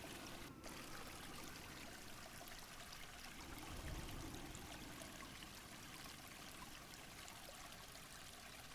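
Faint, steady rushing of running water.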